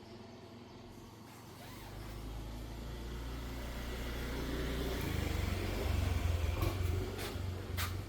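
A low mechanical rumble that builds over several seconds and grows strong and uneven about halfway through, with a few sharp clicks near the end.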